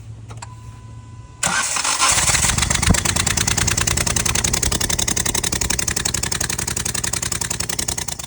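Maruti Alto K10's three-cylinder engine spun by the starter with its spark plugs out, a loud, fast, even pulsing that starts about a second and a half in and cuts off near the end. A short steady beep comes just before it.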